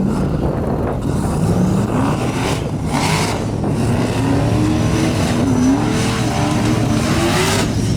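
Formula Offroad race buggy's engine revving hard, its pitch climbing and dropping repeatedly as the throttle is worked. There are bursts of rushing noise about three seconds in and again near the end.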